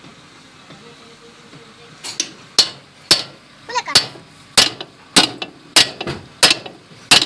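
Hammer blows on metal during wheel bearing work. After about two quieter seconds come about nine sharp, evenly paced strikes, roughly every 0.6 s.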